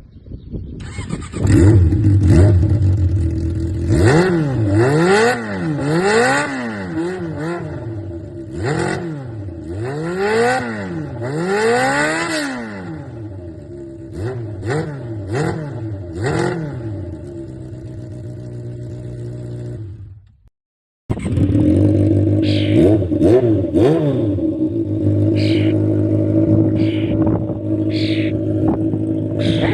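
Straight-piped motorcycle engine revved in a series of blips, each rising and falling in pitch, then settling to a steady idle. After a brief break about two-thirds through, an engine idles again with quick sharp throttle blips.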